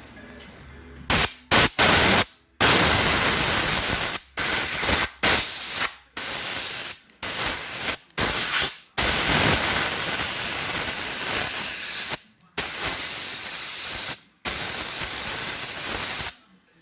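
Paint being sprayed in about a dozen hissing bursts, from under a second to about three seconds each, each starting and cutting off abruptly.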